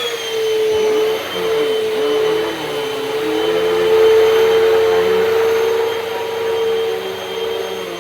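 Hoover Pet Max Complete upright vacuum cleaner running just after being switched on, a steady motor whine whose pitch wavers a little in the first few seconds and then holds.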